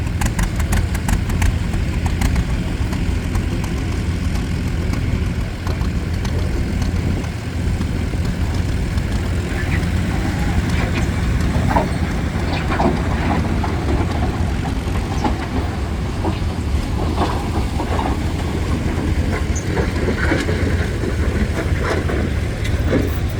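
Vintage tractor engine running steadily with a low, fast, even putt.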